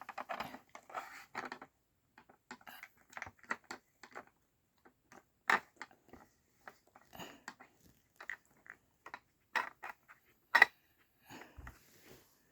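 A dog working a Trixie Brain Mover plastic treat puzzle: irregular light clicks, knocks and crunches as it noses and paws the sliding parts and eats the treats, with a few sharper knocks about five and a half and ten seconds in.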